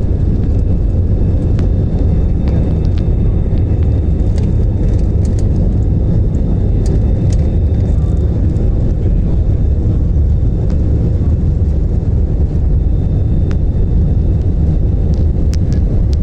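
Airplane engines during take-off: a loud, steady low rumble that holds even, with a few faint clicks.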